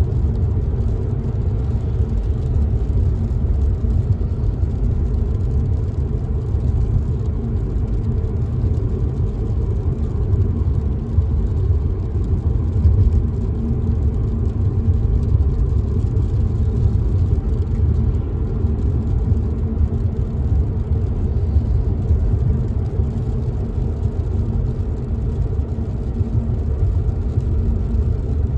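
Steady low rumble of a car driving, heard from inside the cabin: tyre and engine noise from the road, with a faint hiss on top.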